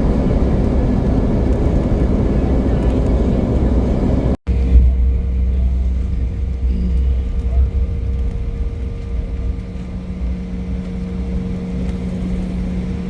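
Cabin noise of a United Express Embraer E175 on the ground just after landing at Fresno. A loud, steady rumble from its GE CF34 turbofans fills the first few seconds and cuts out briefly. It is followed by a quieter steady engine hum carrying two steady tones as the jet slows and taxis.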